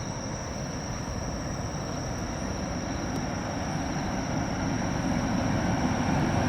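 An Utsunomiya Line electric train approaching on the rails, its low rumble growing steadily louder. Insects keep up a steady high-pitched trill.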